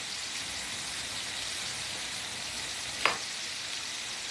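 Chicken breasts frying in oil in an electric skillet, a steady sizzle. A brief high-pitched sound cuts in about three seconds in.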